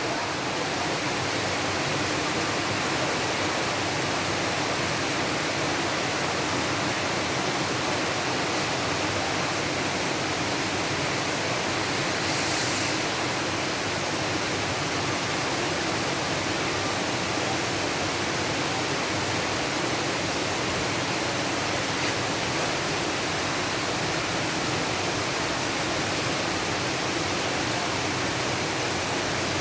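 Rain falling steadily: an even hiss with no breaks, with a brief sharper hiss about twelve seconds in.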